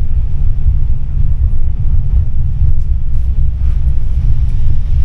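Tram running along its rails, a loud steady low rumble heard from inside the car.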